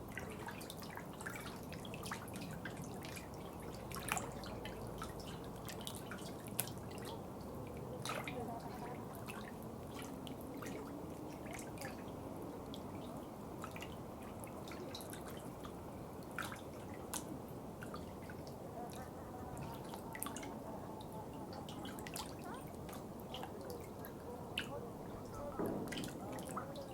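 Water trickling and dripping: a steady low rush of running water with many irregular, sharp drips falling throughout.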